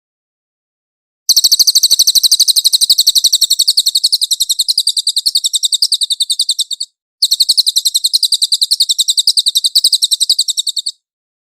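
Cililin bird singing: two long, rapid trills of fast repeated high notes, the first about five seconds long and the second about four, with a brief break between them.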